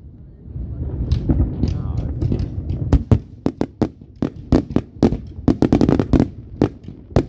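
Fireworks going off: a low rumbling of booms over the first few seconds, then a rapid string of sharp cracks and bangs, thickest about two thirds of the way through.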